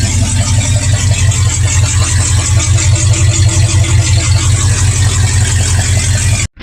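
V8 truck engine idling through a loud exhaust, a steady, uneven low pulsing. It cuts off abruptly near the end.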